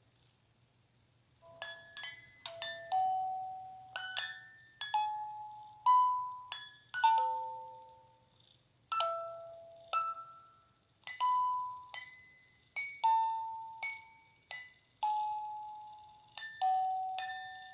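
A slow lullaby melody of single bell-like chiming notes, each struck and ringing down, beginning after about a second and a half of near silence.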